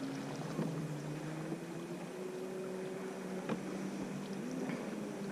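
Steady low hum of a boat, a few pitched tones, one rising slowly in pitch, with a single sharp click about three and a half seconds in.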